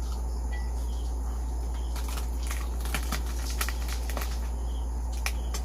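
Crunching and chewing of crispy deep-fried pork skin, a run of short sharp crackles mostly in the second half, over a steady low hum.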